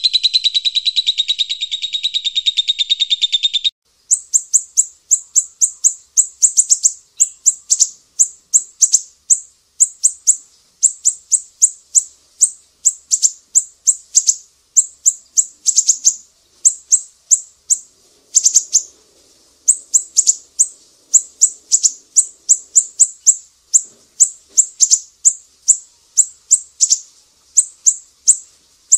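Recorded small birds calling: a dense, buzzy trill that falls slightly in pitch and stops about four seconds in, then very high, thin chips in quick runs of several notes, repeated over and over.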